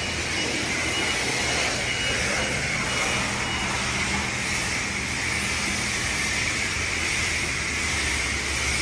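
Steady loud mechanical rushing noise, with a short high beep repeating for the first few seconds; it drops away abruptly right at the end.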